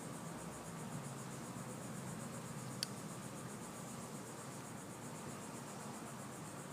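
A steady high-pitched trilling with a fast, even pulse runs in the background throughout. A single sharp click comes about three seconds in.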